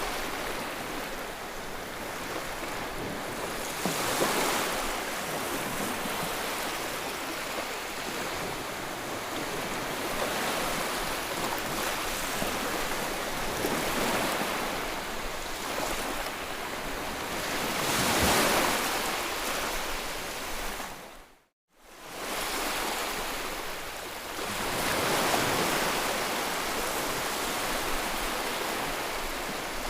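Sleep 'white noise' track: a continuous rushing noise that swells and ebbs every few seconds like surf. About two-thirds of the way through it drops out to silence for a moment and comes straight back.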